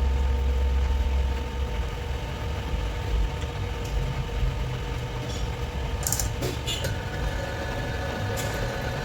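A machine running steadily with a low hum and held tones. The heavy low rumble eases after about a second and a half, and there are a few short clicks about six and eight and a half seconds in.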